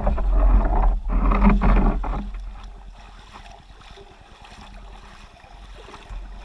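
Water sounds of a canoe getting under way on a river, loudest in the first two seconds and then settling lower, with wind rumbling on the microphone throughout.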